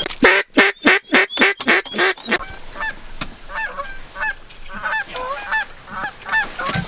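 Duck calls: a loud, quick run of about ten quacking notes over the first two seconds, then softer, shorter calls that go on to the end.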